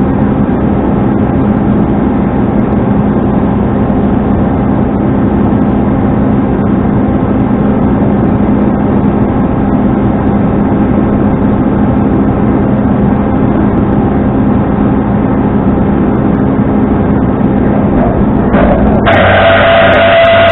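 Truck engine running with a steady drone. Near the end the sound gets louder and a steady high-pitched whine sets in over it.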